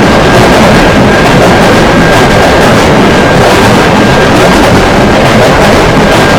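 Train passing through a grade crossing at close range: a very loud, steady rumble and rattle, with a faint thin steady tone running underneath.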